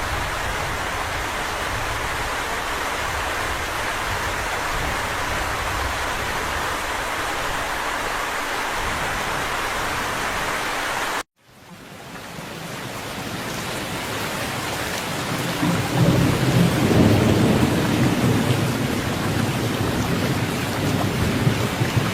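Steady heavy rain. About halfway through the sound cuts out abruptly and fades back in, and from a few seconds later a low rumble of thunder sits under the rain.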